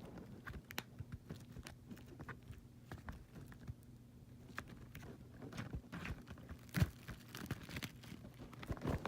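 Plastic shrink-wrap being torn and peeled off a Blu-ray case: scattered crinkles and clicks, with one louder snap about seven seconds in, over a faint steady hum.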